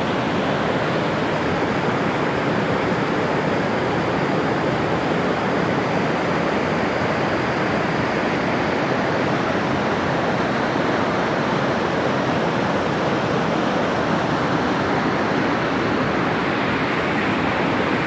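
Large waterfall rushing in a steady, unbroken roar of falling water.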